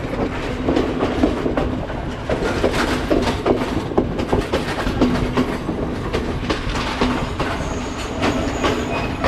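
Passenger train running along the track: wheels clattering over rail joints in irregular clicks over a steady rumble.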